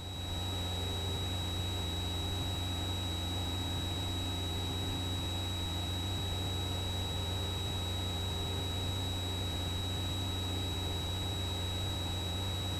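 Cessna 172 cockpit sound heard through the headset intercom: the engine and propeller give a steady low drone during slow flight at reduced power, with a thin, steady high-pitched electronic whine over it.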